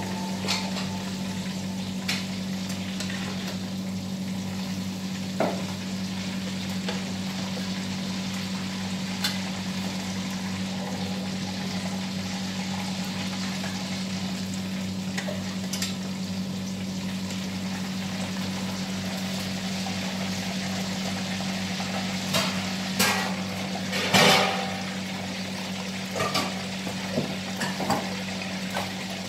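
Food frying in hot oil in a wok, a steady sizzle, with occasional clinks and scrapes of a metal skimmer and spatula against the pan. A louder burst of scraping and clatter comes about 23 to 25 seconds in. A steady low hum runs underneath.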